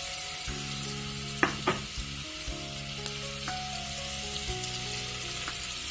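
Raw mango cubes frying in hot oil in a pot, a steady sizzling hiss. Two sharp knocks come about a second and a half in.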